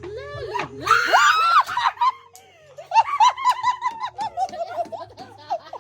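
A shriek about a second in, followed by a burst of rapid, high-pitched laughter from a small group of people, with more laughing and chatter near the end.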